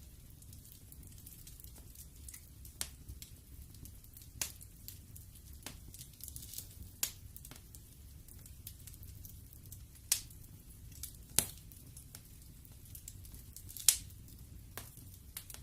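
Wood fire in a fireplace crackling: irregular sharp pops and snaps over a low steady rumble, with the loudest pops about ten, eleven and fourteen seconds in.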